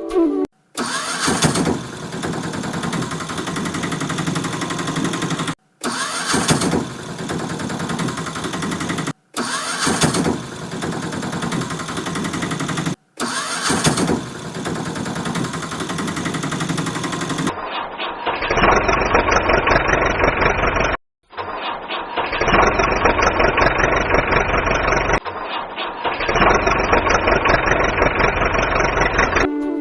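Engine starting and running, heard as a series of separate clips cut together with short silent breaks between them. The later clips sound duller, with the highs cut off.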